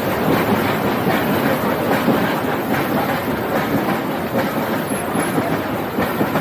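Nilgiri Mountain Railway toy train running along the track: a steady rumble and rattle of the coaches' wheels on the rails.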